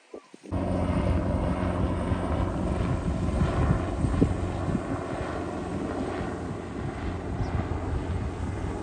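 An engine running steadily with a low, even drone, starting abruptly about half a second in.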